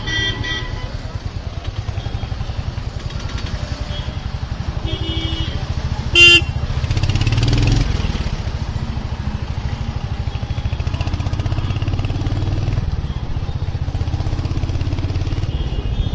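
Royal Enfield Hunter 350's single-cylinder engine running at low revs with an even pulse in slow stop-and-go traffic. A vehicle horn sounds loudly and briefly about six seconds in, with fainter short horn beeps near the start and around five seconds.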